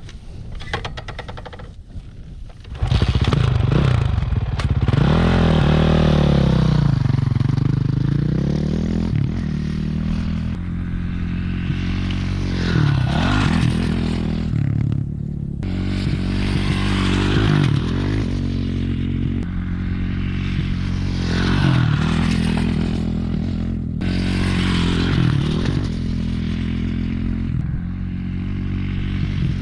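Dirt bike engine, low and quiet for the first few seconds, then revved hard about three seconds in as the bike pulls away. Its pitch then rises and falls again and again as the rider accelerates and backs off.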